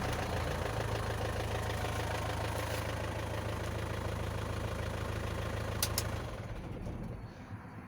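Isuzu NPR diesel engine idling steadily at operating temperature, then shut off about six seconds in and running down to a stop, with a short click just before it dies.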